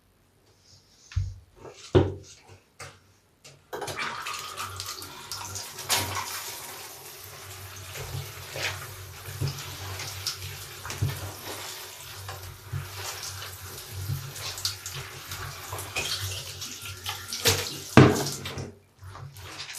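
A large bath sponge being lathered with soap scraps and squeezed: wet squelching and running water, after a few light handling knocks at the start. The loudest squeeze comes near the end, then the sound stops.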